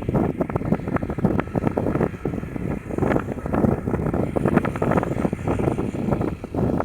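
Wind buffeting the microphone in rapid, uneven gusts, over the engine noise of a Boeing 737-800 jet airliner.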